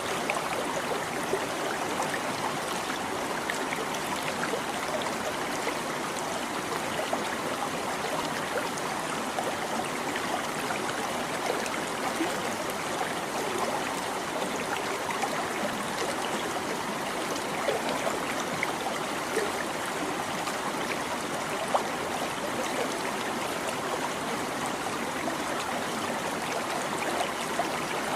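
A small stream babbling and trickling steadily over stones, a continuous rush of water with small splashes and gurgles through it.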